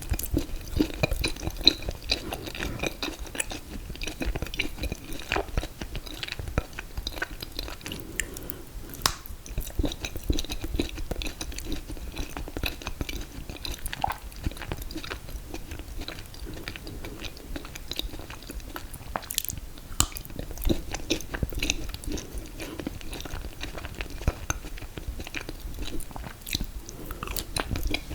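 A person chewing mint chocolate chip ice cream cake with a confetti cake layer, close to the microphone: a continuous run of small mouth clicks and chewing noises.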